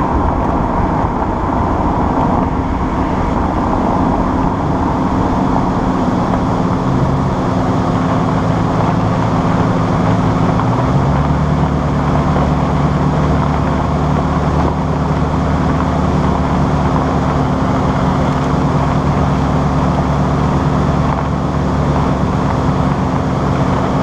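Lexus IS-F's 5.0-litre V8 running at low speed, close to the microphone, its pitch stepping down about seven seconds in and again about eleven seconds in, then holding a steady low note: the car is easing off and settling near idle after coming off the track.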